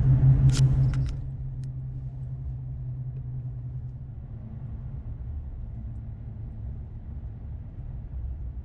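Low, steady rumble inside a truck cab on the move. It starts with a louder hum and a few clicks, then drops to a quieter, even drone after about a second.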